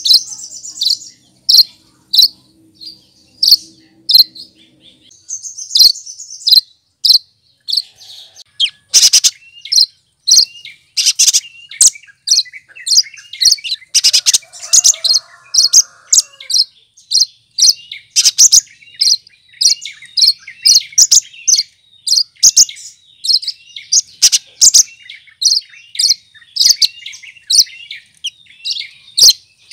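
Cucak kinoi, a leafbird, singing a fast run of short, sharp high chirps, several a second, mixed with twittering mimicked phrases and a brief lower warble about halfway through.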